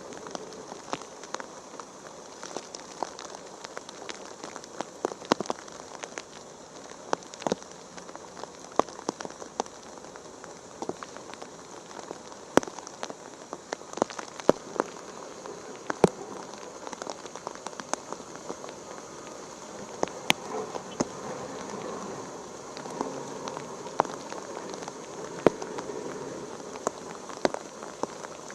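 Rain falling: a steady hiss with many sharp, irregular drop impacts and drips landing close by.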